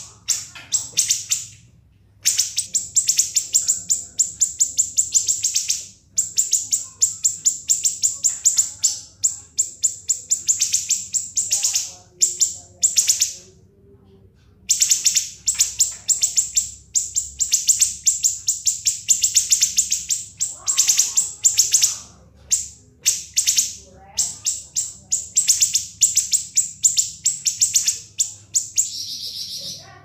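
Siri-siri bird singing long runs of rapid, shrill, high-pitched notes packed into a fast rattling trill, broken by short pauses.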